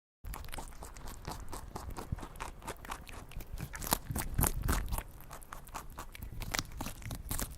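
Crunching, clicking handling noise: many quick irregular ticks and scrapes as small toy animal figures are picked up and moved about.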